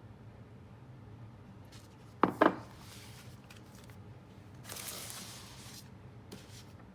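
Kitchen handling sounds over a low steady hum: two sharp knocks a little over two seconds in, then a soft hiss or rustle for about a second.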